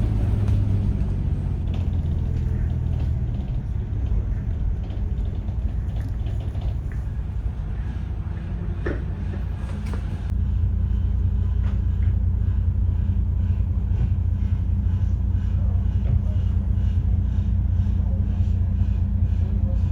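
Tour bus in motion, heard from aboard: a steady low engine and road rumble. About halfway through it shifts and becomes a little louder.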